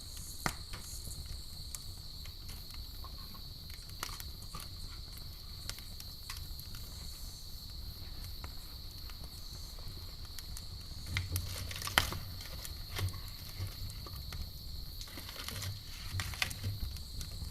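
Campfire burning with irregular crackles and pops, a few sharper ones about twelve seconds in, over a low rumble of the flames. A steady high insect trill runs underneath.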